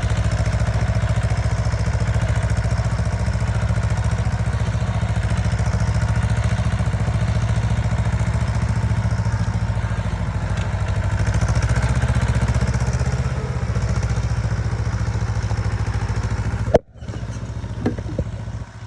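Tractor diesel engine running steadily with a rapid, even chugging pulse. The sound breaks off abruptly with a click near the end, and a quieter mix with a couple of knocks follows.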